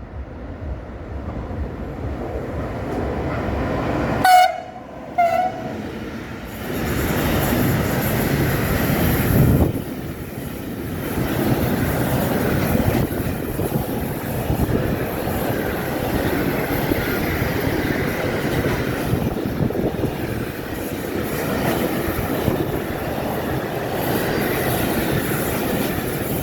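A train passing close by. It sounds two short horn blasts about four seconds in, then the wagons go by with a steady rumble and clatter until the sound cuts off suddenly.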